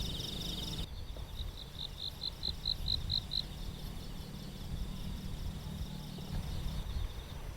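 Insects chirping: a high trill, then a run of evenly spaced chirps, about four a second, from about a second in until midway, over a low rumble.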